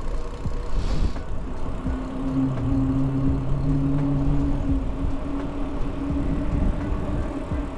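A motor vehicle's engine humming steadily close by in street traffic, starting about two seconds in and holding for several seconds, over a low steady rumble. There is a brief hiss about a second in.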